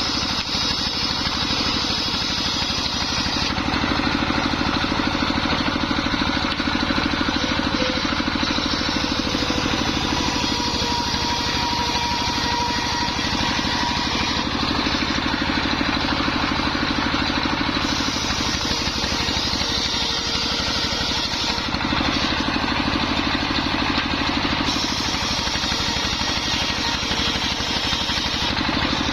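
Engine-driven home-built circular sawmill running steadily while its blade saws waru timber. A higher cutting noise strengthens and fades every few seconds over the steady engine.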